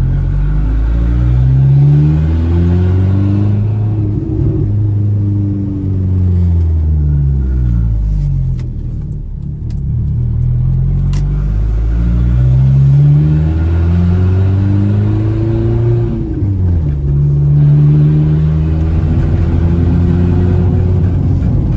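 Volkswagen Saveiro pickup's engine heard from inside the cab, revving up and easing off twice as the truck accelerates and slows, its pitch rising then falling each time, then holding steady for a stretch near the end.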